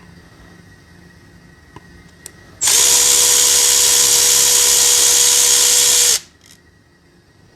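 A workshop tool runs for about three and a half seconds at a steady pitch, starting and stopping abruptly, with a loud hiss and a steady whine.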